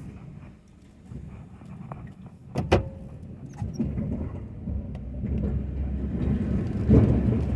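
Ford F-250 pickup engine running with a low rumble, with a sharp clunk about two and a half seconds in. The rumble grows louder and rougher toward the end.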